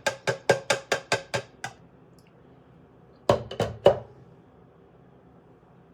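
Quick, even tapping with a faint ring, about four or five taps a second, that stops about two seconds in; a few louder knocks follow about a second later.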